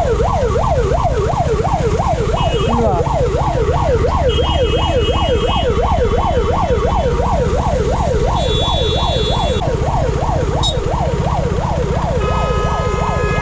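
Ambulance siren wailing in a fast yelp, its pitch sweeping up and down about three to four times a second without a break, over a steady low road and engine rumble. A few brief higher steady tones come in now and then, and a longer one near the end.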